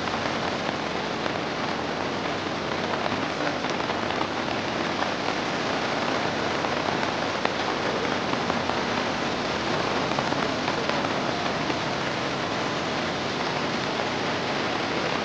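Steady, even hiss of heavy rain with muddy floodwater running across a road.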